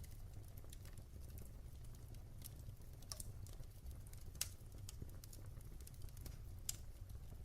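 Wood fire crackling in a fireplace: a low steady rumble of the flames with irregular sharp pops and snaps, two louder pops about halfway and near the end.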